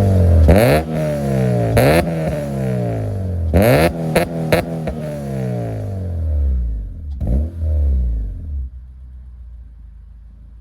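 2006 Acura TSX's 2.4-litre inline-four, fitted with an aftermarket header and catback exhaust, free-revving in about four quick throttle blips. Each rev snaps up and falls back slowly. It settles to a low idle near the end.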